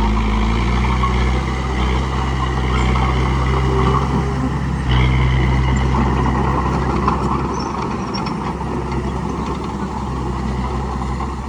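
Bulldozer's diesel engine running steadily while pushing dirt, its note stepping up about five seconds in and easing off a little near the end.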